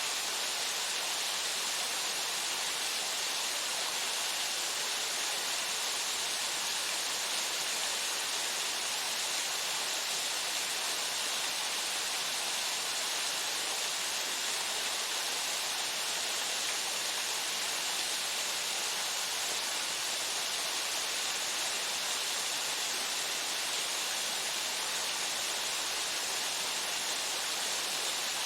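Waterfall: water pouring steadily over rock into a pool, a constant even rushing with most of its sound in the upper range and no change in level.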